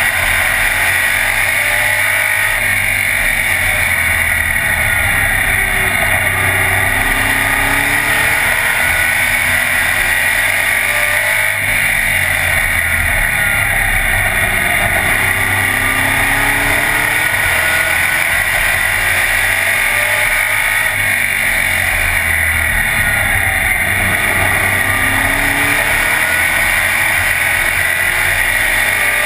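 Race car engine heard from inside the cockpit, running hard and loud, its pitch rising and falling in a regular cycle about every eight seconds as the driver accelerates and lifts lap after lap.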